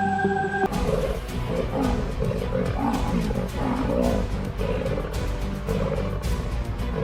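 Lions growling and roaring in repeated rough, wavering bursts, starting abruptly about a second in, with music underneath.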